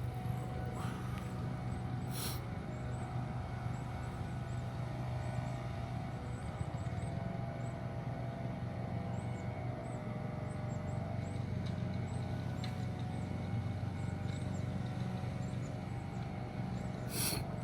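Steady mechanical drone with a low hum, with faint high chirps throughout and two short bursts of hiss, about two seconds in and near the end.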